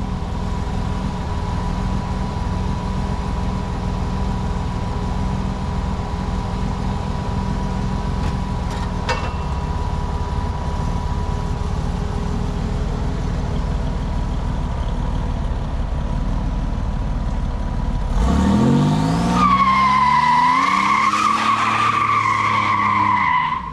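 1987 Buick Grand National's turbocharged V6 running at a steady cruise, then, about three-quarters of the way in, revving hard under full acceleration with the tires squealing until the end.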